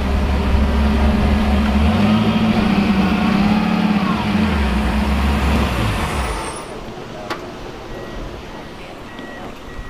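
Turbocharged LS1 V8 launching from a standstill after a clutch dump, running low and lugging with its pitch dipping and rising, almost stalling and never coming onto boost. The engine sound falls away about six and a half seconds in.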